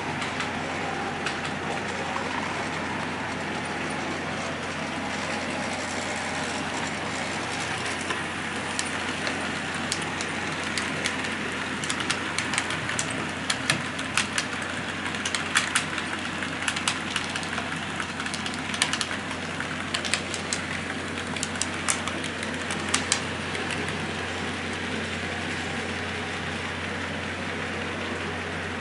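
Model train of an EF11 electric locomotive with its coaches, running with a steady hum. From about eight seconds in to about twenty-three seconds, many sharp, irregular clicks come from the wheels on the track.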